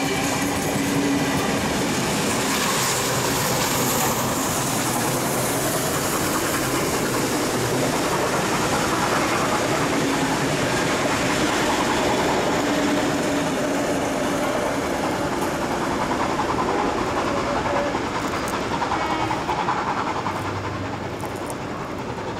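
A heritage passenger train running close by: a steady rumble and clatter of its wheels on the rails. It eases off near the end.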